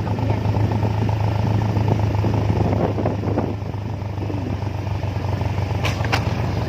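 Steady low drone of a vehicle engine with road noise while under way, with two short clicks near the end.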